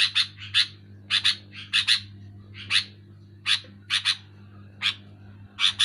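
Sooty-headed bulbul giving short, harsh call notes over and over, often two or three in quick succession, with a faint low steady hum underneath.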